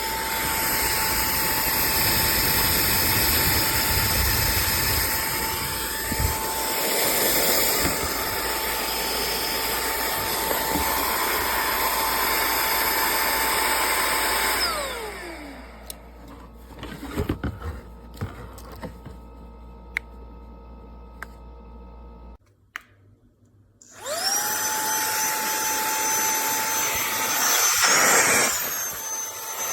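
Minthouz cordless handheld vacuum cleaner running with a steady high motor whine, then switched off about halfway through, its pitch falling as the motor spins down. A few clicks of handling follow. Near the end it is switched back on and the whine rises quickly back to speed.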